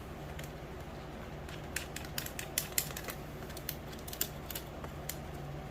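An irregular run of small, sharp clicks and ticks as parts are handled and tightened by hand, over a steady low hum.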